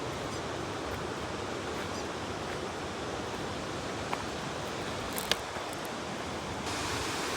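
Waterfall: a steady rush of falling water, with a couple of faint clicks and a slight rise in level near the end.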